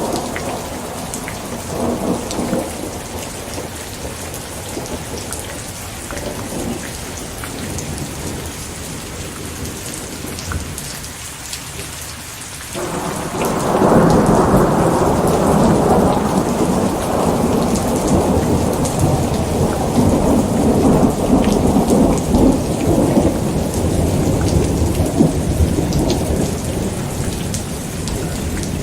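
Steady rain hissing, with a fainter rumble of thunder dying away in the first few seconds. About 13 seconds in, a loud roll of thunder breaks in suddenly and rumbles on for about a quarter of a minute, slowly fading.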